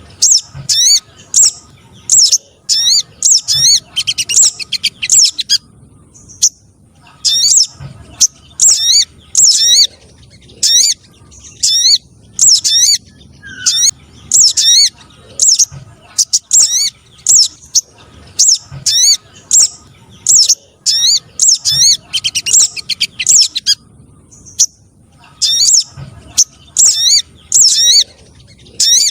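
Bird-lure recording of sogon trotol spiderhunter calls: rapid runs of sharp, high chirps repeated in bursts, with brief pauses between runs.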